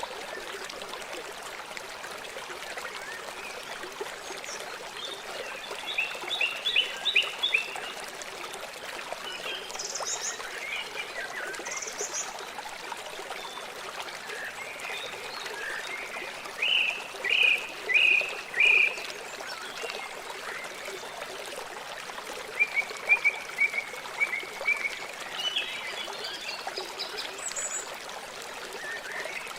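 River water flowing steadily, with three runs of quick, repeated chirping calls over it and a few short high notes.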